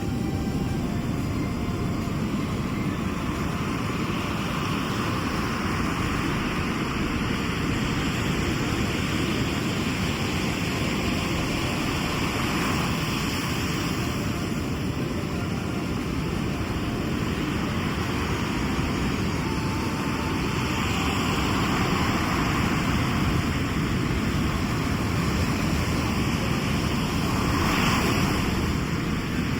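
Sea surf: a steady low rumble of waves with washes of hiss swelling and fading every few seconds as waves break and run up the shore, the strongest one near the end.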